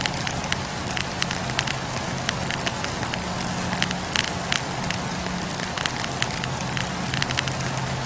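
Wood campfire crackling: many quick, irregular pops and snaps over a steady hiss, with a low steady hum underneath.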